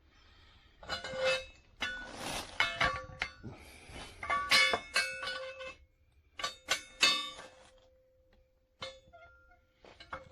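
Galvanized steel anchor and chain being handled: clusters of metal clinks and clanks, several ringing on for a second or so after the strike, then a few scattered clinks near the end.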